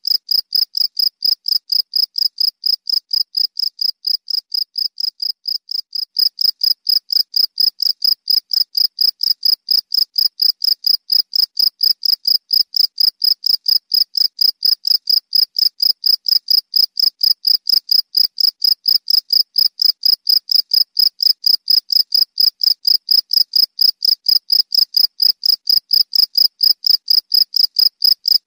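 Cricket chirping, high-pitched, in a fast, even rhythm of about four to five chirps a second.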